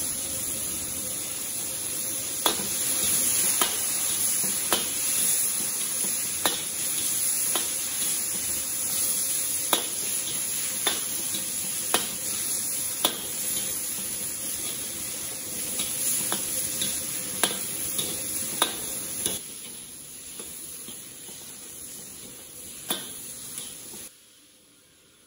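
Cicada nymphs frying in hot oil in a steel wok over low heat, a steady sizzle, with the metal ladle knocking and scraping against the wok about once a second. The sizzle dies down near the end.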